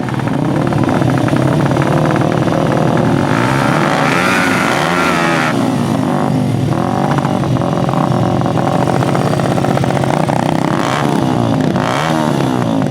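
Several dirt-bike engines revving together, their pitches rising and falling and overlapping, strongest around the middle.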